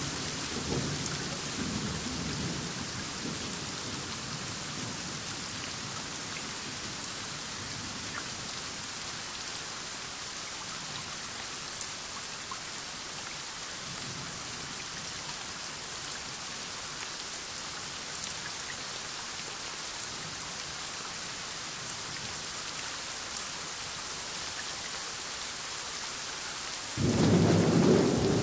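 Heavy rain falling steadily through a night thunderstorm, with a rumble of thunder dying away in the first few seconds. Near the end a new, louder clap of thunder breaks in suddenly and rumbles on.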